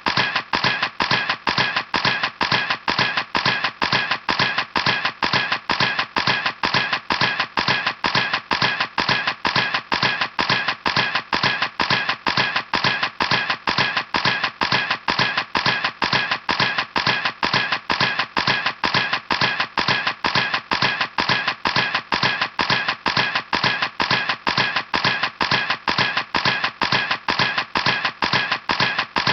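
Camera shutter clicking over and over at an even pace, about three clicks a second.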